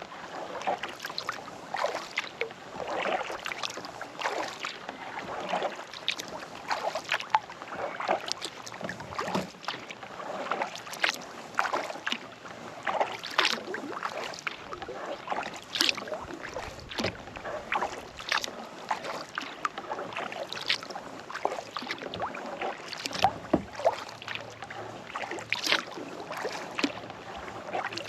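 Kayak paddle dipping and pulling through lake water, with splashes and drips from the blades between strokes; the stronger splashes come about every two to three seconds.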